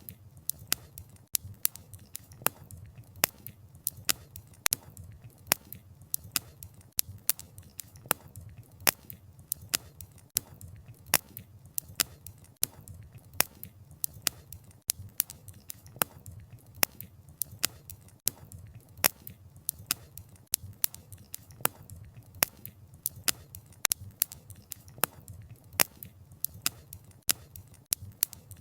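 Wood fire crackling: many sharp, irregular pops and snaps of burning logs, several a second, over a low rumble of the flames.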